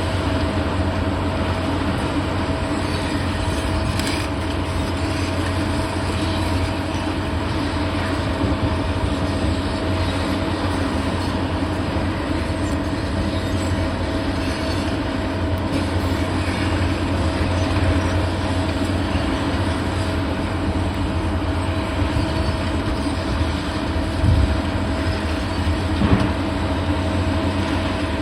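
Heavy demolition machinery running steadily with a low engine hum, with a few light knocks along the way.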